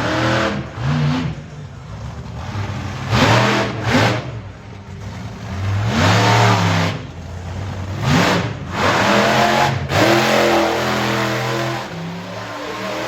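Monster truck engine revving hard in repeated bursts, the pitch sweeping up and falling away with each throttle blip, then held at high revs in a longer steady run in the last few seconds.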